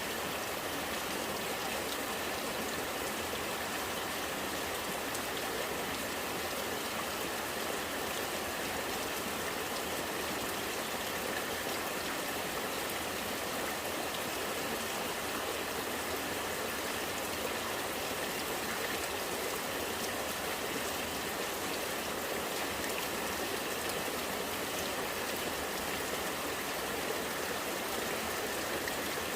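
Rainwater running and gurgling in a steady flow, with rain falling.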